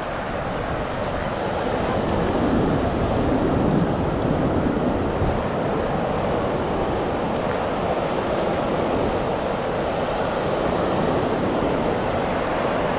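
Ocean surf washing onto the beach: a steady rushing noise that swells a little a couple of seconds in.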